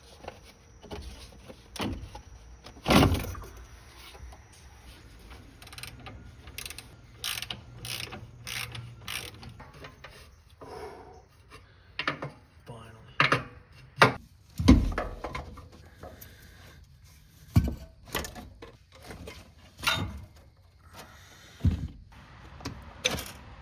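Socket ratchet clicking and metal tools knocking against parts, in irregular bursts with a few louder clanks, while the engine is being worked on.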